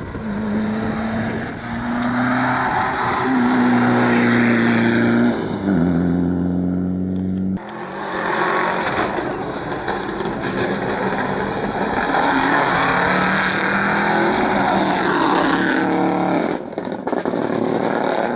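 Rally car engines at full throttle, the engine note stepping up and down in pitch through gear changes. The sound cuts off abruptly about seven and a half seconds in and goes on with more hard-driven engine sound until another sudden break near the end.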